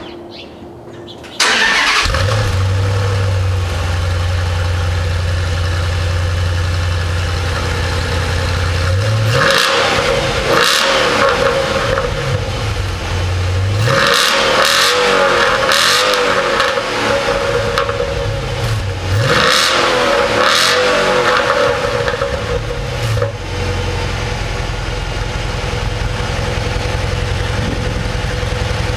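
A 2010 Dodge Challenger SRT8's 6.1-litre Hemi V8 starts up about a second and a half in, then idles. It is revved in three short sets of blips, rising and falling in pitch, and settles back to a steady idle near the end.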